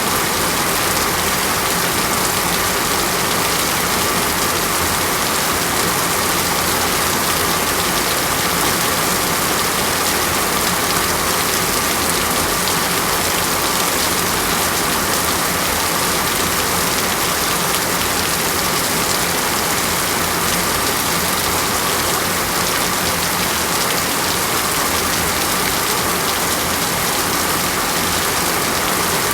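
Steady rain, an even hiss with no breaks or changes in level.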